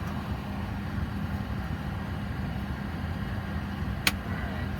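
Steady low hum of a Boeing 737's APU and air-conditioning packs heard inside the cockpit before engine start, with one sharp click about four seconds in.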